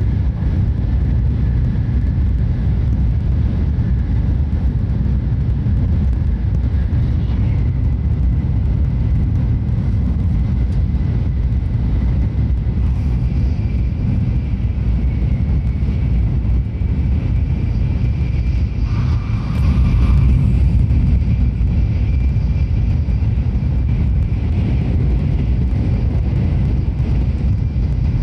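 Cabin noise inside a Tokaido Shinkansen car at high speed: a steady low rumble with a faint high whine over it. It swells briefly about two-thirds of the way through.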